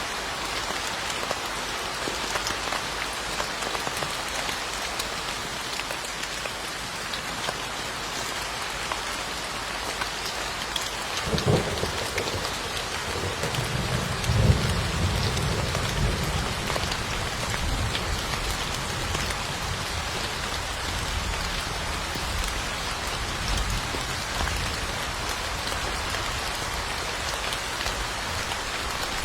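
Steady rain falling, with a crack of thunder about a third of the way in. It swells into a rolling rumble a few seconds later and then keeps rumbling low under the rain.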